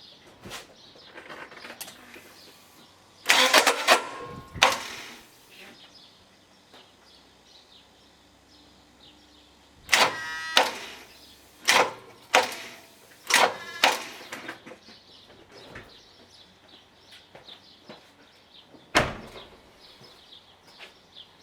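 Subaru Leone's starter motor engaged in several short bursts, each cut off within about a second, with one sharp clunk near the end. The engine never turns over, which the owner fears is coolant in the cylinders hydrolocking it.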